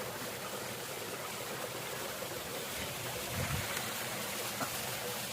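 Steady rush of a small waterfall, stream water running over a broad rock slab.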